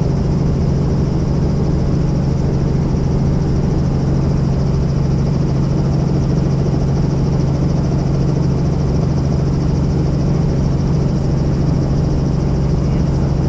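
Helicopter running with a loud, steady low drone of rotor and engine, as heard inside the cabin.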